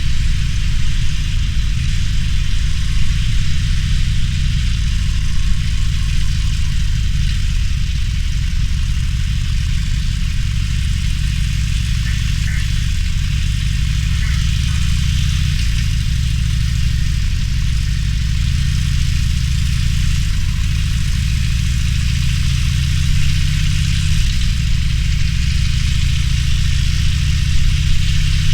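Harley-Davidson Sportster Roadster's air-cooled V-twin running at low, fairly steady revs, its pitch shifting slightly up and down, with a steady hiss over it.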